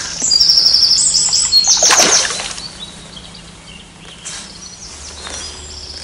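A songbird singing loud, repeated high trilled phrases for the first two seconds or so, then falling quiet with only faint calls later on. A short rush of noise comes about two seconds in.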